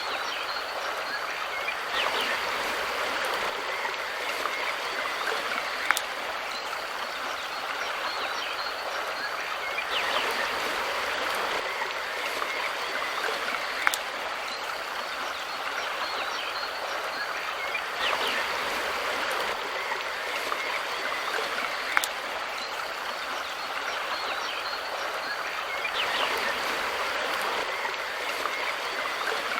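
Mountain river water rushing steadily, swelling a little every eight seconds, with a sharp click that comes back every eight seconds as well.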